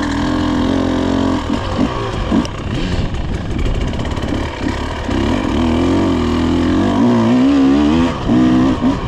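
Off-road vehicle engine running under changing throttle while riding on dirt, its pitch wavering up and down and climbing higher about six to eight seconds in.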